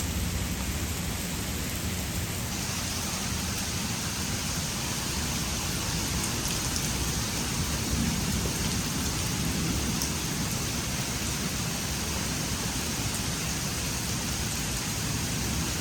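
Heavy thunderstorm rain falling steadily, a dense even hiss with a low rumble beneath and a few faint ticks.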